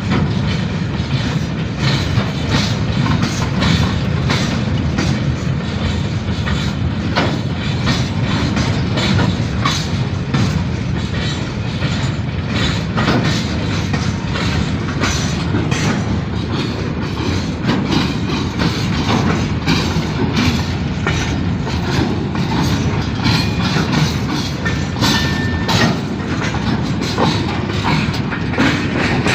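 Train running on the track: a steady rumble with a continuous clatter of wheels over the rails.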